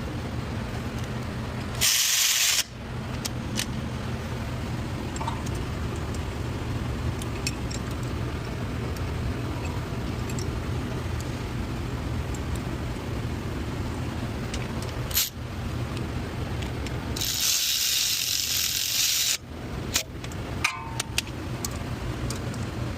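Two bursts of pressurised hissing, a short one about two seconds in and a longer one of about two seconds later on, over a steady low hum, with scattered light clicks of hand tools.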